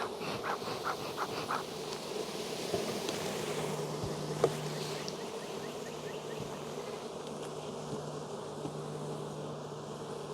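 Honey bees buzzing in a steady hum around an opened, heavily populated hive. A quick run of short repeated pulses in the first second and a half, and a single sharp click about four and a half seconds in.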